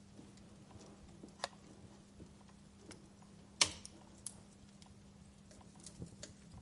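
Wood fire in a fireplace crackling softly, with irregular small clicks and one sharp, loud pop a little past halfway, over a faint steady hum.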